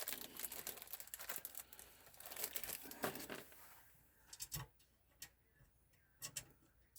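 Rustling, crinkling handling noise as computer parts are moved about, fading after about three seconds into a few short, light clicks and taps.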